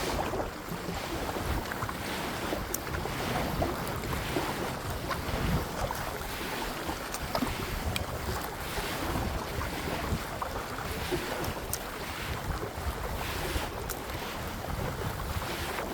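Wind buffeting the microphone over water lapping and splashing around a kayak, with faint splashes recurring about every second.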